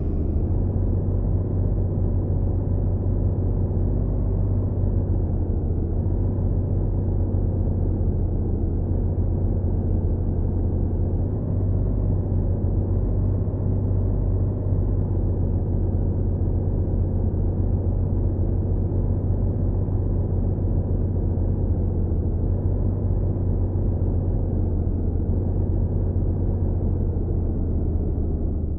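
Truck engine running steadily with an even, low drone.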